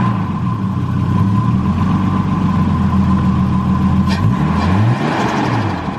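Turbocharged Nissan Skyline engine running just after start-up, revved up and down a couple of times near the end, with its blow-off valve removed and blocked off. A brief sharp sound comes about four seconds in.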